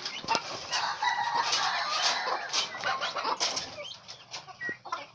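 Chicken hen clucking while young turkey poults give many short, high peeps.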